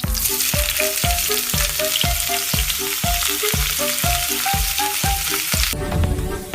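Broccoli sizzling in a hot frying pan over background music with a steady beat. The sizzle stops suddenly near the end while the music goes on.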